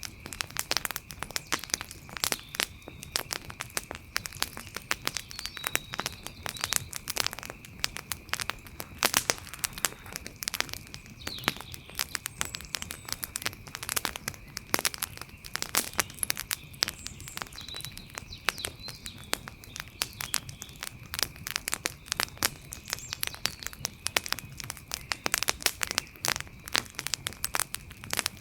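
Wood campfire crackling, with dense, irregular pops and snaps, a steady high-pitched tone underneath and a few faint chirps.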